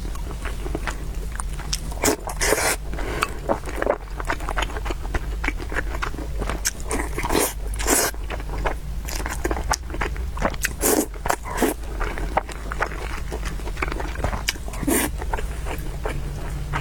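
Close-miked eating: a person slurping noodles and chewing with irregular wet mouth clicks and smacks, louder slurps every few seconds.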